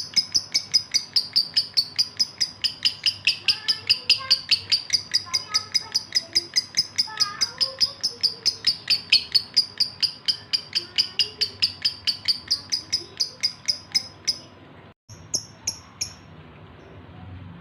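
Male lovebird in breeding condition calling for a female: a rapid, steady string of sharp high chirps, about five a second. The run stops about fourteen seconds in, and a few more chirps follow after a short break.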